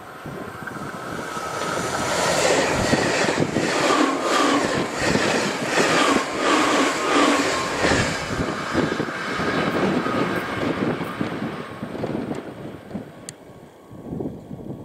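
JR Shikoku 8000 series electric express train passing close at speed, its wheels clattering over the rails in a regular rhythm. The sound builds for the first couple of seconds, is loudest from about two to eight seconds in, then fades as the train moves away.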